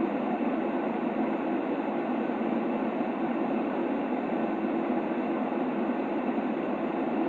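Steady white-noise track for infant sleep: a dull, even hiss weighted toward the lower middle, with no high treble and no changes.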